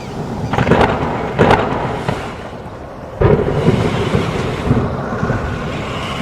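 Thunder rumbling, with two sharp cracks about half a second and a second and a half in. It dies down, then a fresh loud rumble breaks in suddenly about three seconds in, the sign of a storm about to bring heavy rain.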